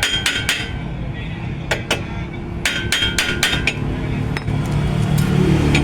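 Hammer striking steel suspension parts in quick runs of ringing metal blows: about four strikes at the start, two more near the two-second mark and a run of five soon after. A low hum swells near the end.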